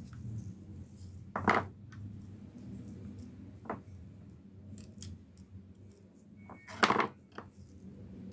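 Clicks and knocks of a Wahl Senior hair clipper and small tools being handled while the clipper is worked on: two sharp knocks, about a second and a half in and near seven seconds, with lighter clicks between.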